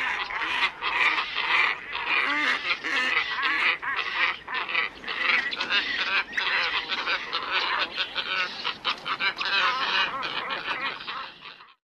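Black ibises calling: a dense chorus of many overlapping calls. It cuts off abruptly near the end.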